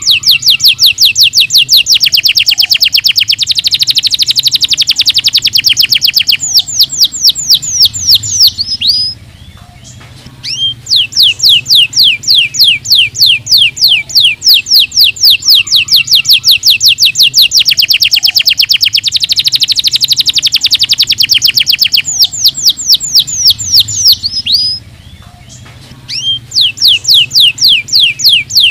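Domestic canary singing long, rapid trills of fast repeated notes, with short pauses about nine seconds in and again near twenty-five seconds in.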